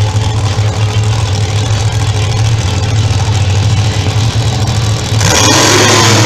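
Monster truck engines running loud and steady, then suddenly growing louder and harsher about five seconds in as they rev up.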